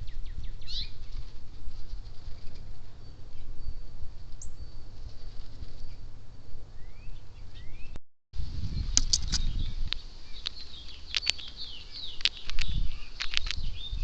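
Backyard birds at a feeder chirping and calling, with short rising chirps at first. After a brief gap just past halfway, sharp clicking calls and chatter follow, over a low rumble of wind on the microphone.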